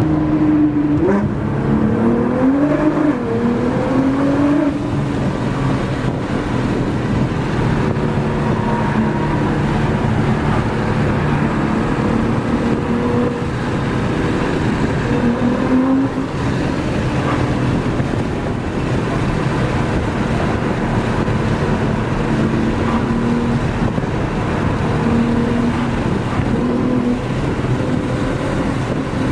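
Car engine revving hard under spirited driving, its pitch climbing and dropping again and again as it pulls through the gears.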